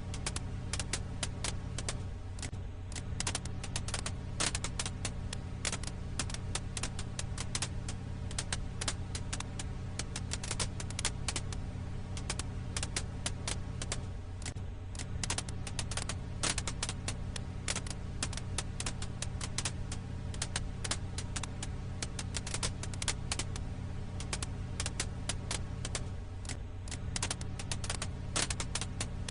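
Firewood crackling in a campfire: dense, irregular small pops and snaps over a steady low rumble.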